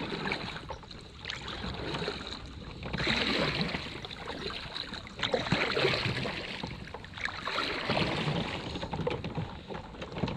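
Kayak paddle strokes in the water, a swishing splash every two to three seconds with small knocks and drips between them.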